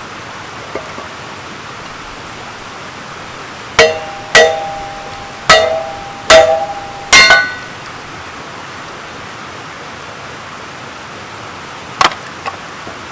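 Five hammer blows, a little under a second apart, driving a log down onto a Kindling Cracker's ductile cast-iron splitting blade, each with a short metallic ring. Two lighter knocks follow near the end.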